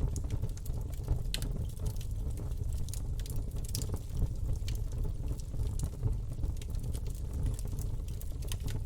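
Campfire burning: a steady low rumble of flames with scattered crackles and pops throughout.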